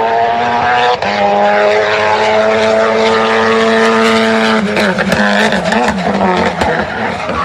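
A drift car's engine held at steady high revs, then wavering up and down and dropping slightly in pitch about two-thirds of the way through as the throttle is worked.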